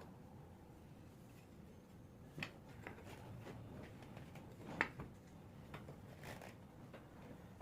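A few faint, scattered clicks and taps over a low background hiss, the sharpest one a little under five seconds in.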